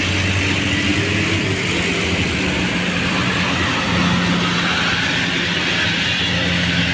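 Heavy vehicle's engine, a bus or truck, running steadily under load on a steep uphill climb, with a low drone and a broad hiss.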